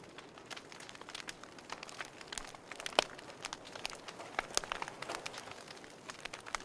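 Wood fire crackling: irregular sharp pops and snaps over a soft hiss, with one louder pop about three seconds in.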